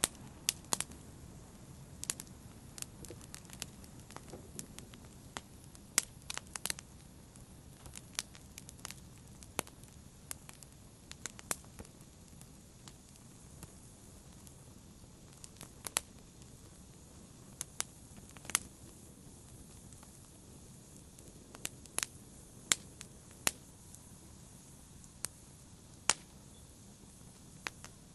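Wood fire crackling: irregular sharp pops and snaps, some in quick clusters, over a low steady hiss of the burning logs.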